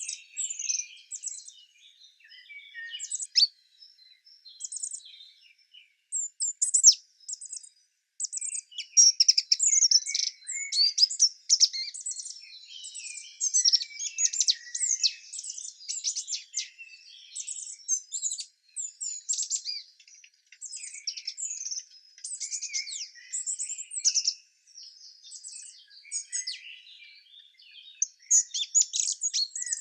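Several small songbirds chirping and singing at once, rapid high-pitched chirps and trills overlapping, sparser for a few seconds near the start and then busy again.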